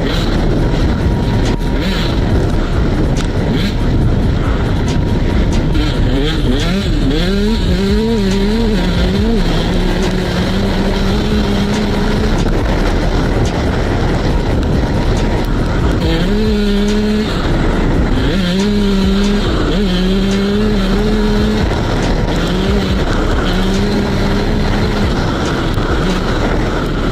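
KTM SX 125 single-cylinder two-stroke motocross bike being ridden off-road, its engine pitch rising and falling and holding steady in stretches, over a constant rushing noise.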